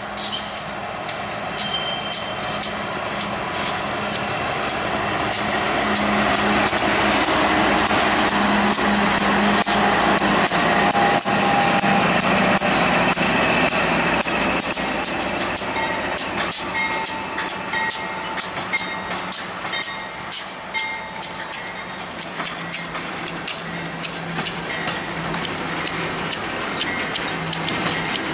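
Diesel locomotives of a slow coal train passing close by, their engines growing loudest about halfway through. After that comes a regular clicking of the coal hopper wheels on the rails as the cars roll past.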